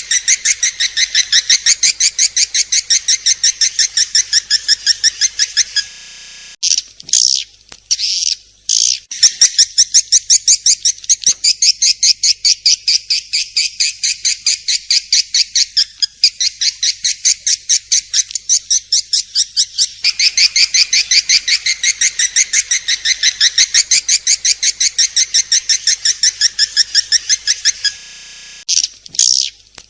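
Swiftlet (walet) chattering: a fast, steady run of high repeated chirps, about seven a second. The run breaks off about six seconds in into a few separate bursts, then resumes, and pauses again near the end.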